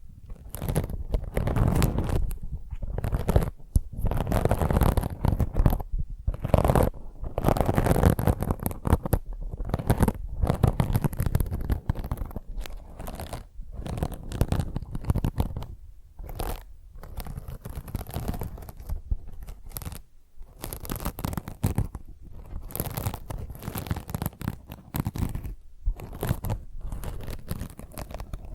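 A scouring pad being scratched and rubbed in quick, irregular strokes with brief pauses between runs, making a dense crackly texture.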